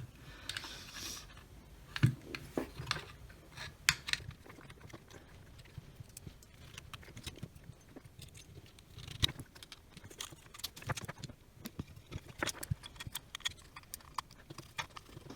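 Small plastic and metal parts of an opened security camera being handled and pressed back together: scattered light clicks and taps, with a few sharper knocks about two, four and nine seconds in.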